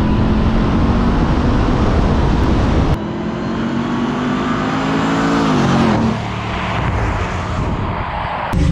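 Performance car engines running loud in a few cut-together clips: a steady engine note first, then after a sudden cut an engine revving with its pitch climbing and then dropping away about two-thirds of the way through.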